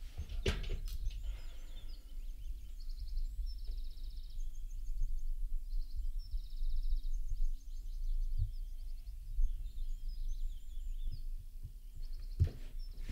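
Small birds singing, quick high trills repeated in short bursts every second or two, over a steady low hum. A soft knock or two near the start and near the end.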